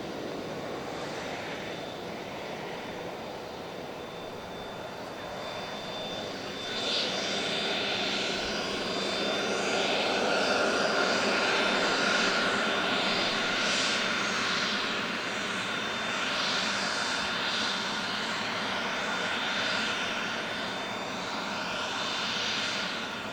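Cessna Citation CJ2 business jet's twin turbofan engines whining at taxi power, a high steady whine over a rushing noise that grows louder about seven seconds in.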